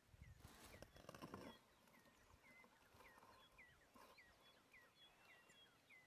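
Faint bird chirps: a long, even run of short, hooked notes, two or three a second. A brief rustle is heard in the first second and a half.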